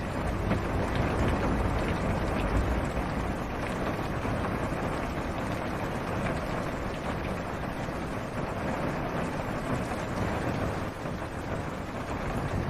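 Steady rain falling on a car's roof and windshield, heard from inside the car. A low rumble of distant thunder swells under the rain in the first few seconds.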